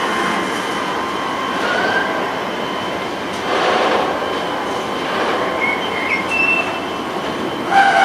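Freight train of tank wagons rolling past: a steady rumble of wheels on rail with high, wavering squeals from the wheels. The noise swells louder about three and a half seconds in and again near the end.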